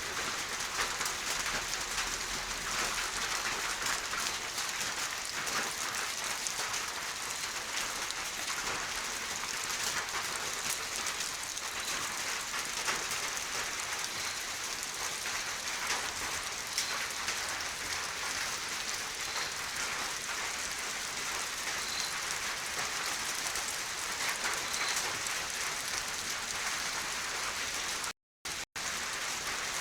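Steady rain falling, a dense even hiss of many drops. It drops out to silence for a moment about two seconds before the end.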